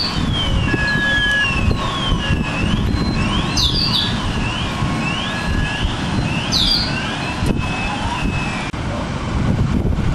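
Emergency vehicle siren wailing in quick falling sweeps, repeated over and over, stopping near the end. Under it is a loud steady rush of wind on the microphone.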